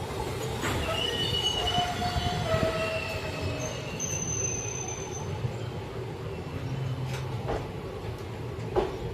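Passenger train coaches rolling slowly, the wheels squealing in several high, thin tones over a steady rumble, with a few sharp knocks.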